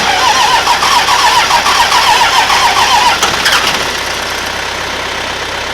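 Starter cranking a 24-valve Cummins diesel, a whine that rises and falls with each compression stroke. It stops about three seconds in without the engine catching.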